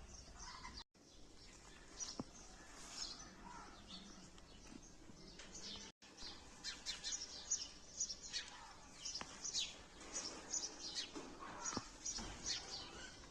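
Small birds chirping, many short high chirps overlapping, growing busier in the second half. The sound drops out completely twice, briefly, about a second in and near the middle.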